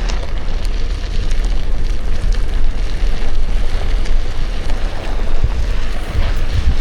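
Heavy wind buffeting the microphone over a steady low road rumble, as heard from a moving vehicle.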